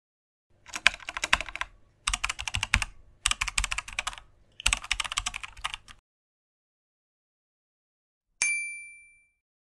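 Typing sound effect: four quick runs of key clicks, each about a second long, then a single bright bell ding near the end that rings out for about a second.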